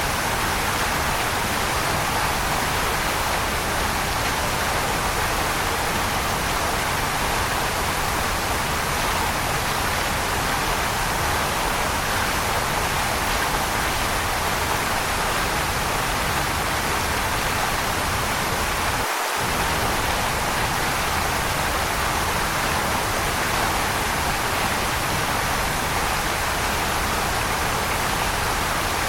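Waterfall: water falling in a steady, unbroken rush, with a momentary drop in the low rumble about two-thirds of the way through.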